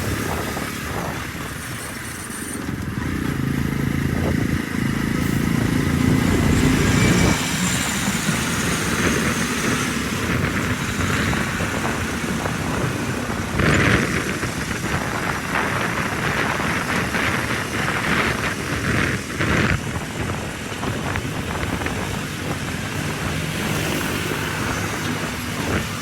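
Diesel engines of heavy machinery running, a backhoe loader working among tractors. The engine pitch climbs for several seconds soon after the start, and a stretch of clattering comes around the middle.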